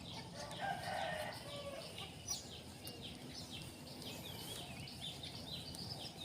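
A rooster crowing faintly about a second in, over small birds chirping repeatedly with short falling chirps.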